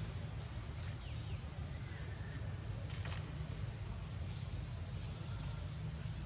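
Outdoor ambience: a steady high-pitched insect buzz over a constant low rumble, with a few faint short chirps here and there.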